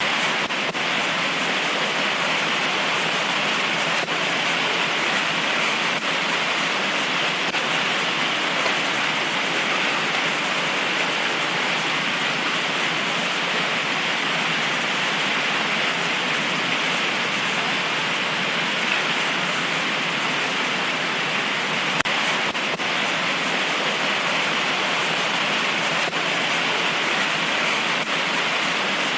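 Heavy tropical rain pouring steadily, an even hiss with no let-up.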